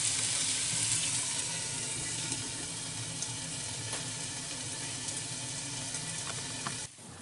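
Seekh kebabs sizzling in oil in a nonstick frying pan over a low flame, a steady hiss with scattered small pops. It grows a little quieter about two seconds in as the pan is covered with a lid, and cuts off suddenly near the end.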